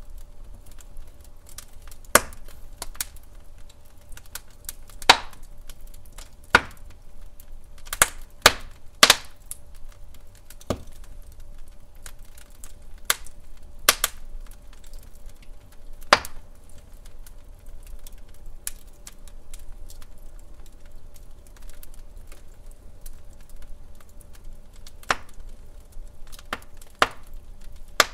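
Wood fire crackling in a fireplace: irregular sharp pops and snaps, a few louder ones among many small ones, over a soft low rumble.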